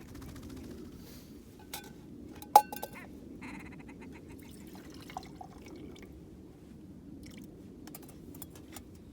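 Camp cooking gear being handled: small clinks and clicks of metal pots and utensils over a steady low rush, with one sharp ringing metal clink about two and a half seconds in.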